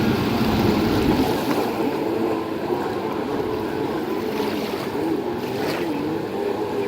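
Racing jet ski engines heard across the water, their pitch rising and falling repeatedly as the riders work the throttle, over a steady wash of water noise.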